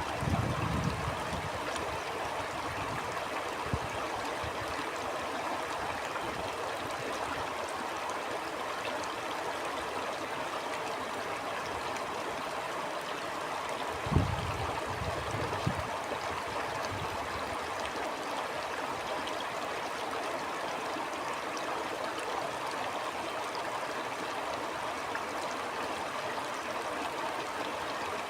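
Stream water flowing and gurgling in a steady rush. A few short low gusts of wind on the microphone come near the start and about halfway through.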